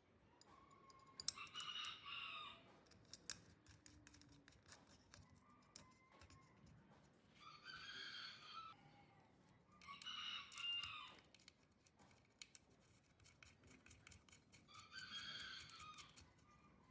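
Faint rooster crowing four times, each crow about a second long, over scattered light clicks and taps.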